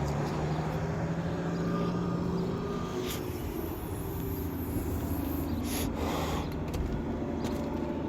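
Steady low hum of an engine running, with two short hissing noises about three and six seconds in.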